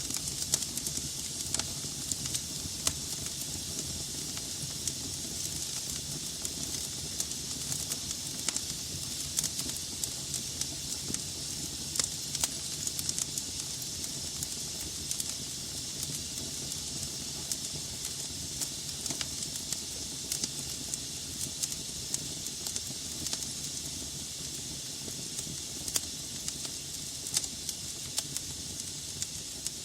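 Wood fire burning in a fireplace: a steady hiss with frequent sharp pops and crackles of burning logs.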